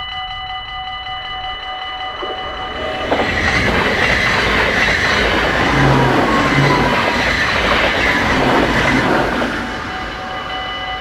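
Level-crossing warning bells ring steadily while an electric passenger train passes at speed from about three seconds in, its rushing wheel and body noise loudest for about six seconds. The train noise fades near the end, leaving the bells ringing.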